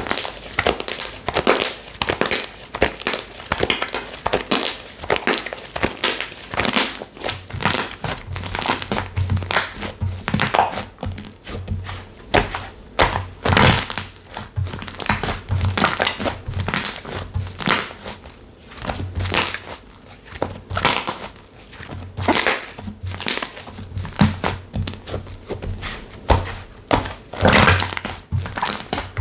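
Hands squeezing and pressing slime, a dense uneven run of crackling, crinkling pops.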